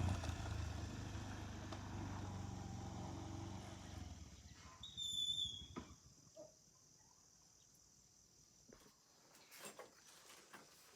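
A motor vehicle's engine fading away over the first few seconds. About five seconds in there is a short high-pitched tone, followed by a few faint clicks over a faint, steady high-pitched insect-like tone.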